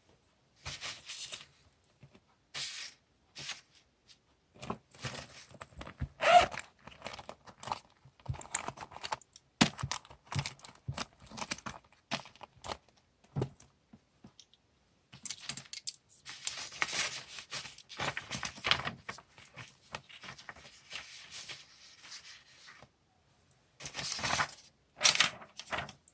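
Paper and stationery handled in diary decorating: irregular rustling and tearing of paper, with short clicks and taps, the loudest a sharp click about six seconds in.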